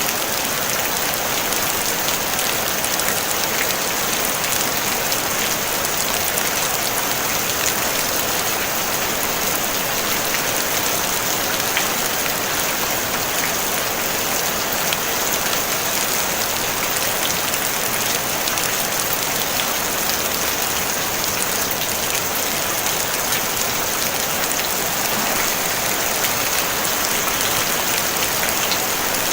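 Steady rain pattering on a tin roof, a dense even hiss of many small drop impacts with no thunder.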